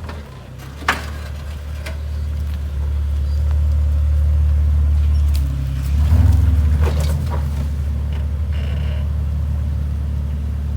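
Jeep engine running under load as it crawls up a rock obstacle, getting louder over the first few seconds and surging briefly about six seconds in. A sharp knock about a second in and a few more around seven seconds.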